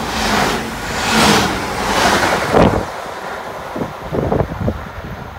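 Train passing through the station at speed: a loud rush of wheels and air on the rails, swelling about once a second, with wind buffeting the microphone. It falls away about three seconds in, leaving a few low thumps.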